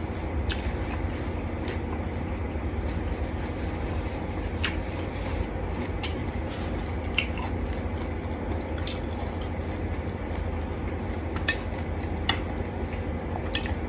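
A person eating a seafood salad of shrimp and squid, with chewing and scattered light clicks of utensils on dishes, over a steady low hum.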